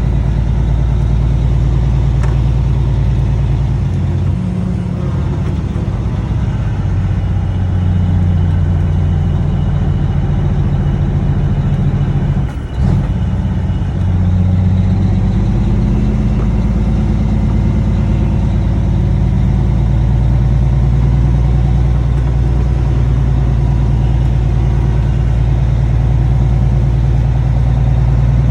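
Cummins ISX inline-six diesel running through six-inch straight pipes, a loud, deep exhaust note. Its pitch shifts several times in the first half, with a brief dip about twelve seconds in, then it holds steady.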